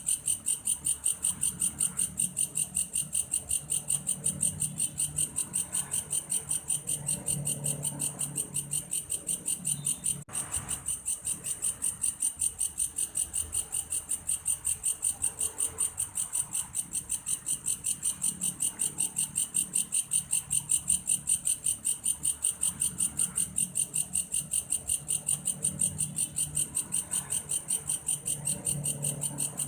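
Belalang kayu grasshopper calling, a cricket-like sound: a fast, even, high-pitched pulsing trill that repeats without pause, over a faint low rumble. The trill breaks off very briefly about ten seconds in.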